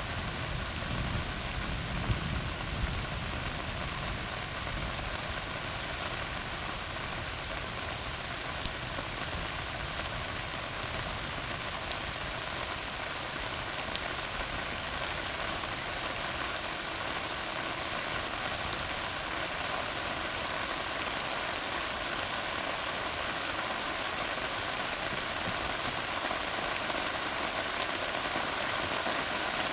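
Steady rain falling on a tarred road: an even hiss with scattered sharper drop ticks. A low rumble fades out in the first few seconds.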